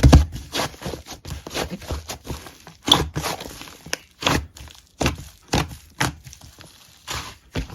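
Hands squishing and pressing slime, making irregular wet clicks and crackly pops about twice a second, some louder than others.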